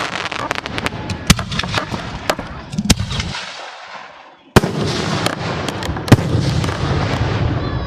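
Professional fireworks display: rapid bangs of aerial shells bursting over a dense crackle and rumble. The firing dies away about three and a half seconds in, then a sharp loud bang about a second later sets off another rapid volley.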